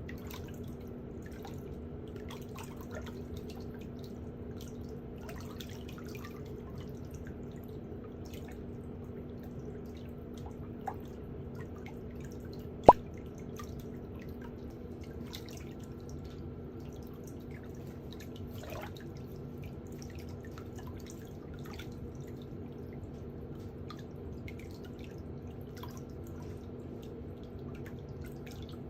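Light scraping and small ticking sounds of hand pedicure tools working on a toenail, over a steady low hum. A sharp click about 13 seconds in.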